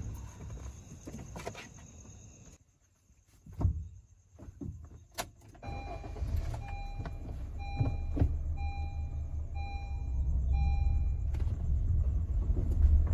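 A Honda car pulling away, heard inside the cabin: engine and road rumble building from about six seconds in. Over it a short beep repeats about twice a second for several seconds. Before that come a few scattered clicks and knocks.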